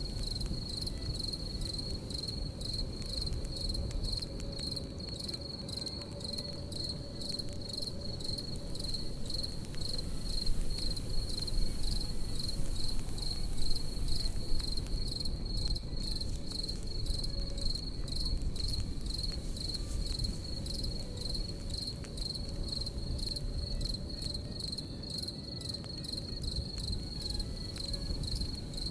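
Crickets chirping in a steady, high, evenly pulsing trill over a campfire's crackle and low rustle of burning wood, with a few louder pops from the fire about a third to halfway through.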